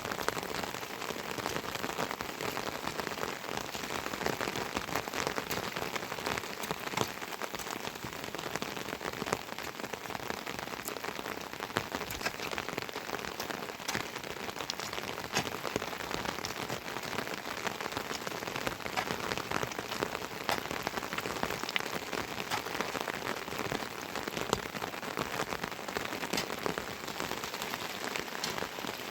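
Heavy rain falling steadily, a dense hiss with many sharp drop impacts pattering on nearby surfaces.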